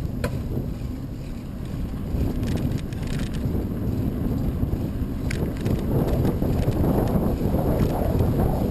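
Wind buffeting the microphone during a bicycle ride into a headwind: a loud, uneven rumble, with a few faint clicks.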